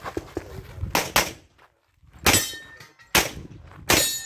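Pistol shots fired at an uneven pace, about five in all, two of them quickly together about a second in; after two of the later shots a metallic ring hangs on briefly.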